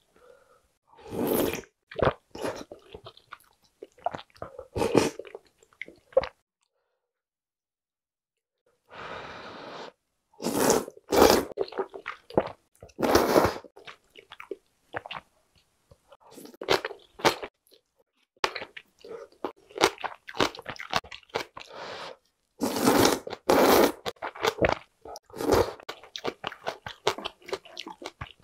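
Close-miked eating sounds: chewing with crunches and wet mouth clicks, as soft noodles and green onion kimchi are eaten. The sounds come in irregular clusters, with a silent pause of about three seconds a third of the way in.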